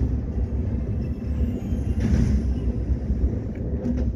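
Train running with a steady low rumble, and a brief hiss about two seconds in.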